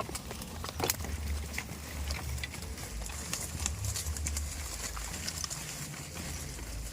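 Goats' hooves clicking and tapping irregularly on hard ground, over a steady low rumble.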